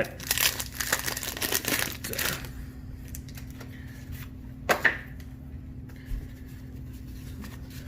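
A 1991 Topps wax-paper card pack being torn open and crinkled, a dense crackling for about two and a half seconds, then one sharp click near the middle and quieter handling of the cards. A faint steady hum underneath.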